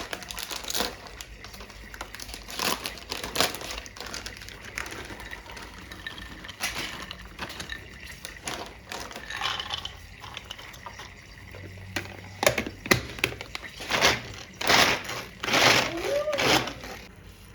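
Irregular knocks, clatters and brushing noises of things being handled by hand, coming closer together and louder in the last few seconds.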